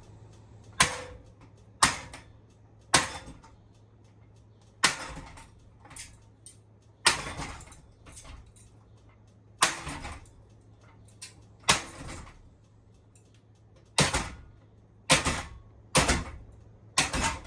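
About a dozen sharp blows struck against a switched-off Honeywell ceiling fan to knock it down, coming irregularly every second or two, each with a short metallic ring.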